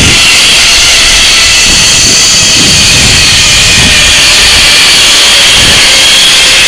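Zip-line trolley pulleys running along the steel cable: a loud, steady whine of several high tones over a rushing hiss.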